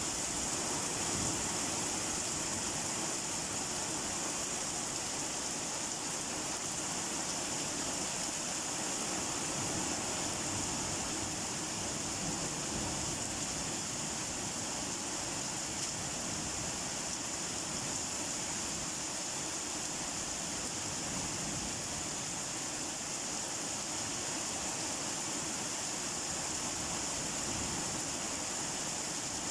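Steady rain falling: an even, unbroken hiss with no distinct drops or thunder.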